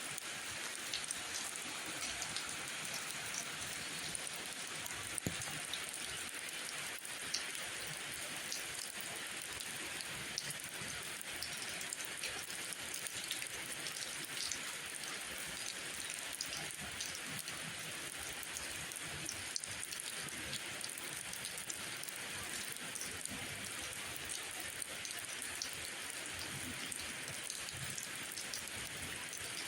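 Steady rainfall, an even hiss with many scattered individual drops ticking.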